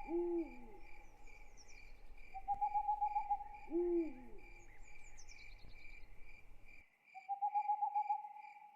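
Night ambience: crickets chirping steadily in a fast pulsing chorus, with an owl giving two short hoots that rise and fall, about three seconds apart. A buzzy trill of about a second repeats three times, and there are a few faint high chirps.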